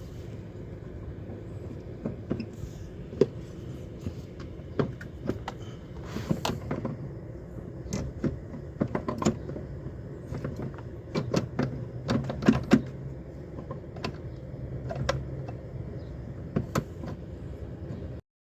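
Irregular clicks and knocks, as of things being handled, over a steady low hum; the sound stops abruptly near the end.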